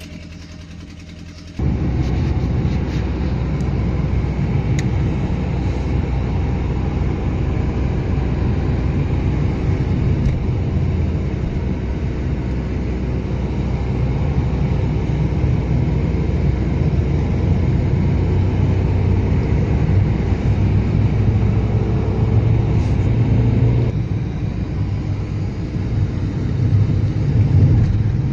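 Steady low rumble of a running motor vehicle, engine and road noise, starting abruptly about a second and a half in and easing slightly near the end.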